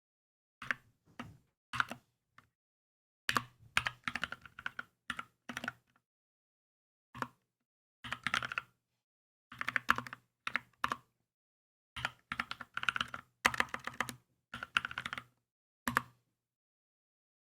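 Typing on a Keychron K2 mechanical keyboard: quick runs of key clicks broken by short pauses of a second or so.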